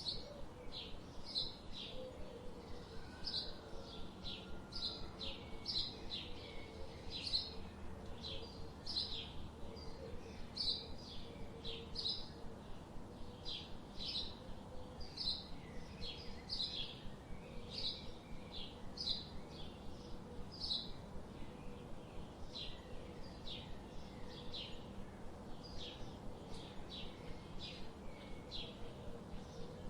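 Birds chirping in a forest: a steady series of short, high chirps, about two a second, over a faint background hum.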